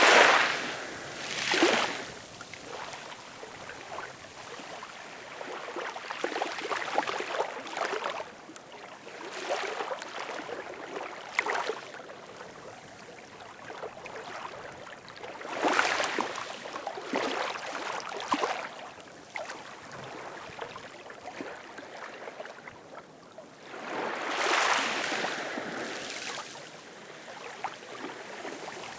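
Ocean waves washing in, with rushes of noise rising and falling in irregular surges every few seconds.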